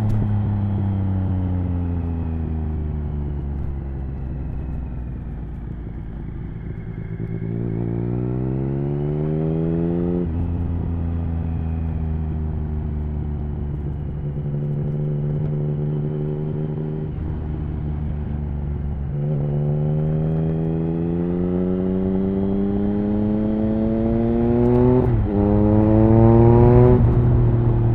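Triumph Speed Triple 1050's three-cylinder engine through an aftermarket HP Corse Hydroform exhaust on the move: revs fall for several seconds off the throttle, then climb again in pulls broken by sudden drops at gear changes, the loudest pull near the end.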